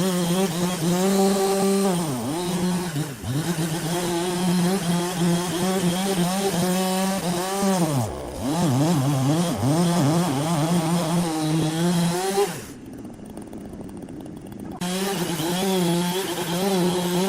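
Chainsaw running at high speed while cutting wood, its pitch dipping and recovering several times as the saw bogs under load. The sound drops away for about two seconds near the end, then the saw picks up again.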